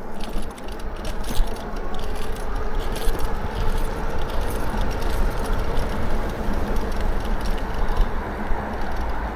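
Lectric XP4 folding e-bike rattling and jingling as it rides along the path, many small clicks over a steady rush of tyre and wind noise. It is a rattle the owner still means to fix.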